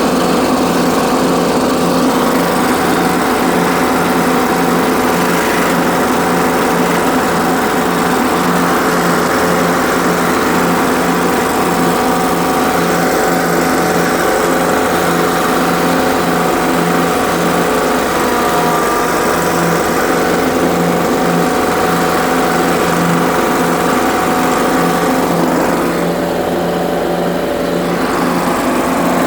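Ariens 20 HP lawn tractor engine running steadily, a little quieter for a couple of seconds near the end.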